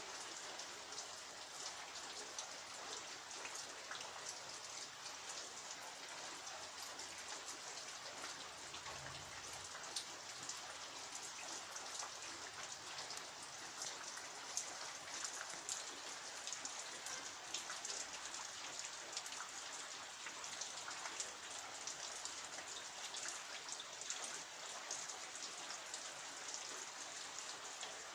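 Steady rain falling, with many individual drops ticking and pattering on hard surfaces, a few of them louder.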